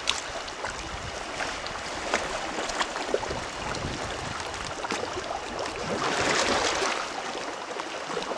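Sea water sloshing and splashing, with many small splashy clicks and a louder rush of water about six seconds in.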